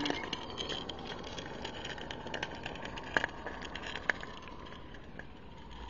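Miniature Accucraft Shay live-steam locomotive running slowly on very low steam pressure: a steady soft hiss with light crackling and scattered small clicks, two sharper clicks about three and four seconds in.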